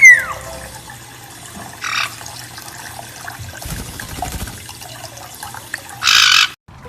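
Water running or splashing, with a bird's loud whistle rising and falling at the start and a harsh, loud squawk near the end.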